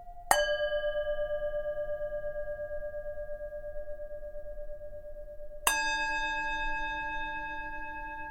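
Tibetan singing bowl struck twice, about five seconds apart. Each strike rings on with several steady overtones that fade slowly, and the second rings with a different, lower set of tones.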